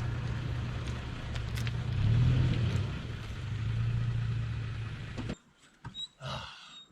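Truck driving: a steady engine hum with road noise, the engine note swelling a couple of times. The sound cuts off abruptly about five seconds in, followed by a few faint clicks.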